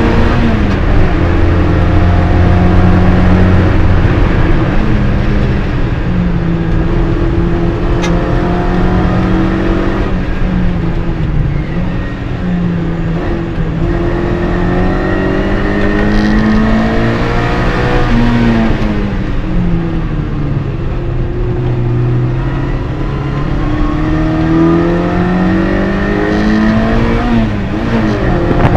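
MG Midget race car's four-cylinder engine at racing speed, heard from inside the cabin. Its pitch climbs and drops again and again as it changes gear and slows for corners, with a long fall about two-thirds of the way through followed by a slow climb.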